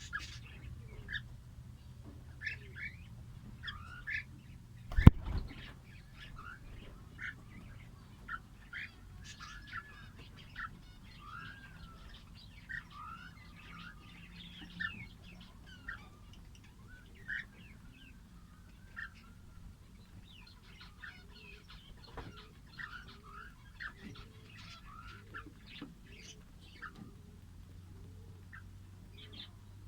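A flock of small pet parrots chirping and squeaking in short, scattered calls, with one loud thump about five seconds in.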